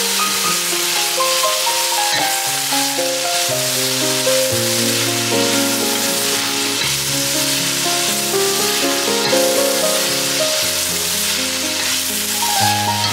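Fresh curly kale sizzling as it fries in a hot steel pot, stirred constantly with a wooden spatula so it wilts down, under background music.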